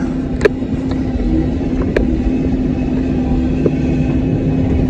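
Cat 305 mini excavator's diesel engine running steadily, with a few sharp knocks, the loudest about half a second and two seconds in, as the bucket taps the ground to test it.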